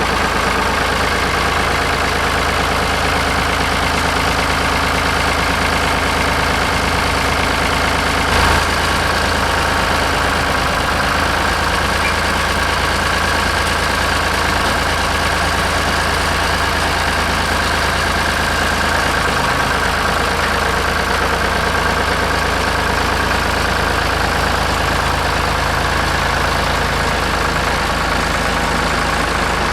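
An engine idling steadily, with one brief knock about eight seconds in.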